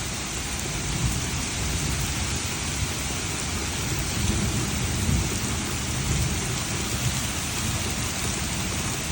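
Heavy rain pouring steadily in a thunderstorm, with a low rumble of thunder strongest about halfway through.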